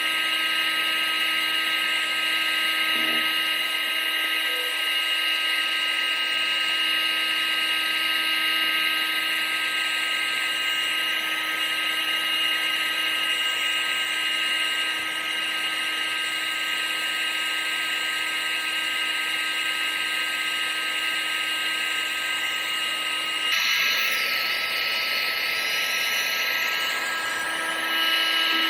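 Vacuum cleaner motor running steadily: a high whine of several steady tones over a rushing hiss of air. About three-quarters of the way through, the tone shifts briefly, then settles back near the end.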